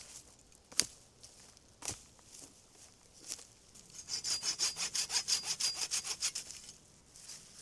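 Hand saw cutting wood in a quick, even run of rasping strokes for about two and a half seconds, after a few single sharp snaps of wood earlier on.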